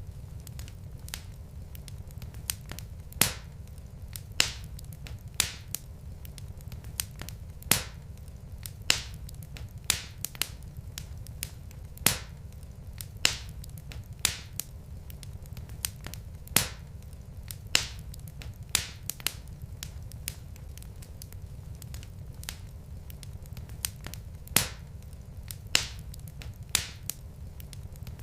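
Wood fire crackling in a fireplace: sharp pops every second or so, some much louder than others, over a steady low rumble.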